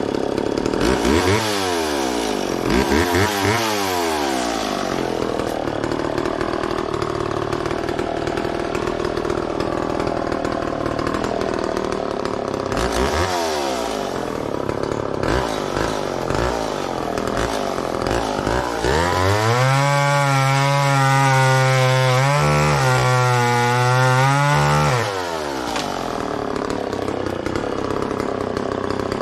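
McCulloch Mac 10-10 two-stroke chainsaw cutting Osage orange: the throttle is blipped up and down a few times between stretches of lower running, then held at full revs for about six seconds from around twenty seconds in, dipping briefly once, before falling back to idle.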